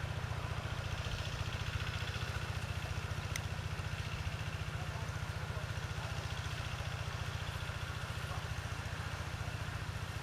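Single-cylinder diesel engine of a Quick G1000 two-wheel hand tractor chugging steadily while ploughing a rice field.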